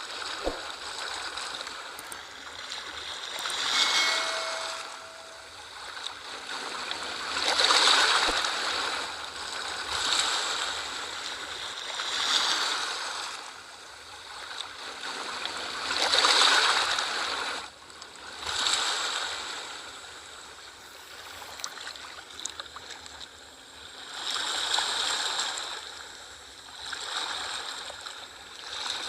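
Sea waves washing in and drawing back, the sound swelling and fading every few seconds.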